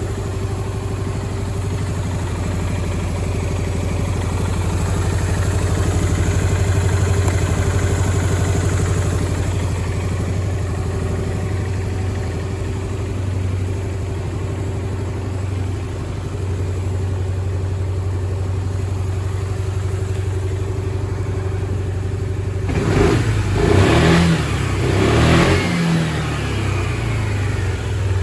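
2004 Yamaha Grand Majesty 250 scooter's single-cylinder four-stroke engine idling steadily, then revved twice in quick blips near the end.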